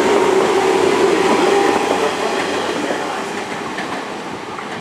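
JR 185 series electric train departing and running past, with a steady hum over the rolling noise; the sound fades from about halfway through as the last car passes and the train pulls away.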